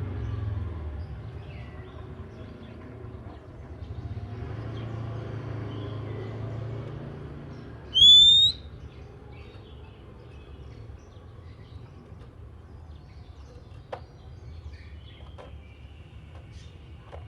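Oriental magpie-robin (kacer) calling: faint scattered chirps, then one loud, clear rising whistle about eight seconds in, over a steady low rumble.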